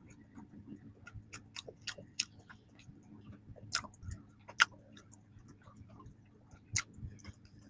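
Close-miked chewing of soft bread and pastry, with irregular wet mouth clicks and smacks, a few of them louder than the rest.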